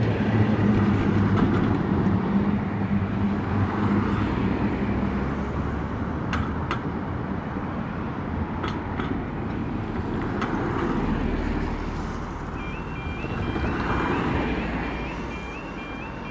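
Road traffic passing over a level crossing, cars swelling past one after another. About twelve seconds in, the crossing's warning alarm starts: a steady alternating two-tone warble, signalling that the barriers are about to lower.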